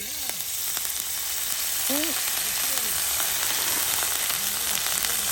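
Food sizzling as it fries in hot oil in a pan, the sizzle building up over the first second and then holding steady.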